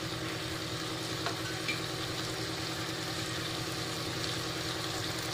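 Green chillies and cumin seeds frying in foaming melted milk cream (malai) in a non-stick pan, a steady sizzle with a low steady hum underneath. There is a faint tick about a second in.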